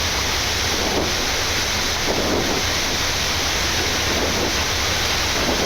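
Steady rushing noise on the Boeing 787-9 flight deck during the takeoff roll, with the engines at takeoff thrust and the airliner accelerating past 80 knots.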